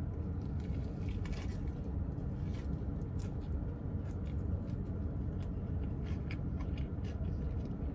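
A man chewing a bite of fried chicken sandwich with bacon and cheese, with faint scattered crunches and mouth clicks over a steady low hum inside a car's cabin.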